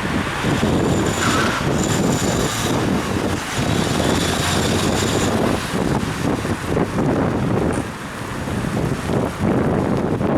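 Wind buffeting the microphone of a head-mounted action camera on a moving bicycle, mixed with road and traffic noise. A faint high whine sounds through the first half.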